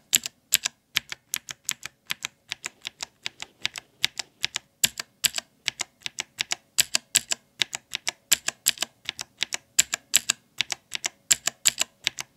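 An unlubricated clicky blue mechanical keyboard switch, its key pressed and released over and over, giving sharp, crisp clicks at an even pace of about four to five a second.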